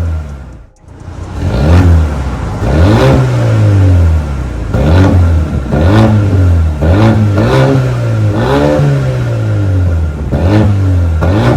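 Mercedes-AMG CLA35's turbocharged 2.0-litre four-cylinder (M260) revved through an MS-R valved cat-back exhaust, the engine note rising and falling in repeated throttle blips about once a second. A brief drop in sound about a second in.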